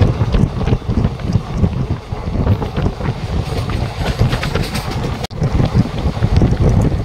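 Passenger train running at speed, heard from inside a sleeper coach at the window: a steady rumble of wheels on track with wind buffeting the microphone.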